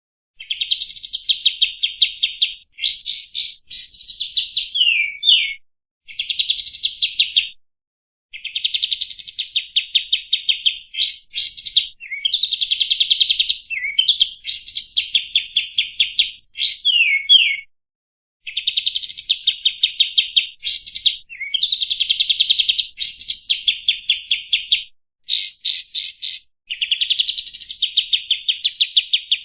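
Kapas tembak, a bulbul, singing a loud, varied song. It gives phrases of fast, rapidly repeated chattering notes mixed with sharp downward-slurred whistles, separated by short pauses.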